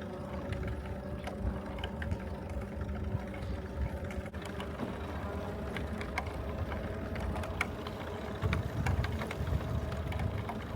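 Bicycle being ridden, heard on a handheld camera: a steady rolling rumble with a constant hum and scattered small clicks and rattles from the bike.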